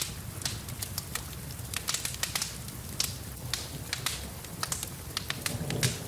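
Wood fire in a fireplace crackling, with many sharp snaps and pops each second over a steady low rumble of the flames, and rain falling in the background. A duller thud comes near the end, as of a log shifting.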